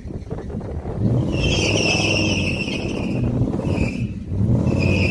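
Car engine revving hard with its tires squealing: a burnout attempt. There is one long squeal starting a little over a second in, then two short chirps near the end.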